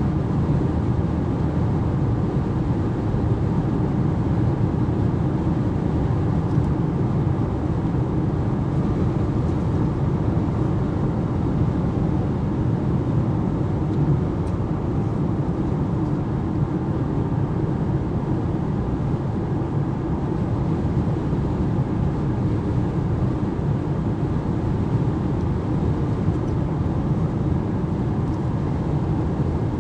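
Steady road and wind noise inside the cabin of an Alpine A390 GT electric car cruising at motorway speed, about 130 to 140 km/h: an even, low rumbling hiss with no engine note.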